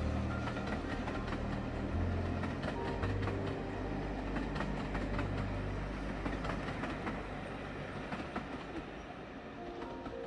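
Passenger coaches of a train rolling past, their wheels clicking over the rail joints with a low rumble, fading as the end of the train draws away.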